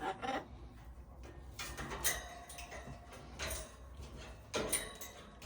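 Irregular short knocks and scrapes from an Amazon parrot clambering about, roughly a handful of sharp clicks spread unevenly over several seconds.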